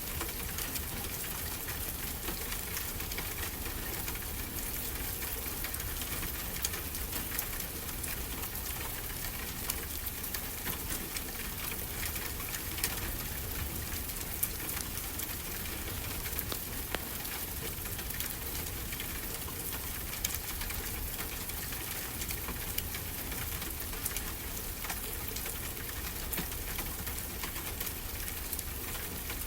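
Wood fire crackling with scattered sharp pops over a steady wash of ocean surf.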